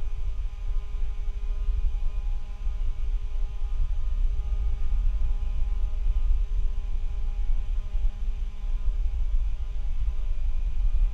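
Noise from a poor microphone: a continuous low rumble with a steady hum of several tones above it.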